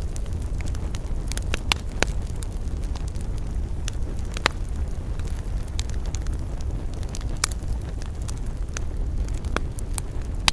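Campfire burning with a steady low rumble, and wood crackling and popping in irregular sharp snaps, a dozen or more, the loudest about two seconds and four and a half seconds in.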